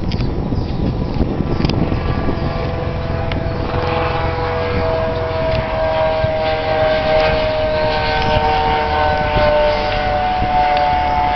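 Eurocopter EC130 helicopter flying past: steady low rotor noise, then from a few seconds in a siren-like whine of several tones that slide slowly in pitch as it moves.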